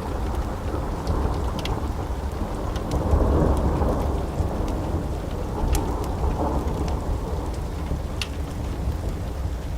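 Steady rain with a deep, rolling rumble of thunder that swells about three seconds in and again a little later. A few sharp pops of a crackling wood fire come through now and then.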